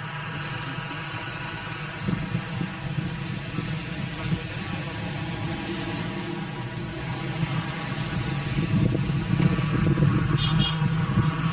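Engine of a brick-clay grinding mill running steadily, growing louder in the last few seconds, with a brief high rattle near the end.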